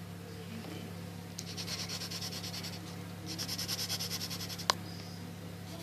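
Pencil shading on paper: quick back-and-forth scribbling strokes in two spells of about a second and a half each, with a single click near the end and a steady low hum underneath.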